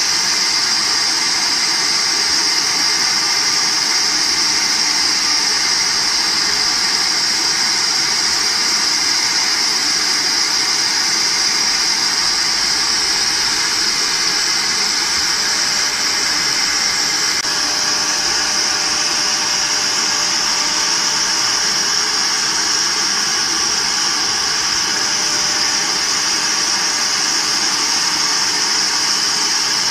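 Three-process multi-head CNC router running steadily, its spindles giving an even high whine over a constant mechanical noise.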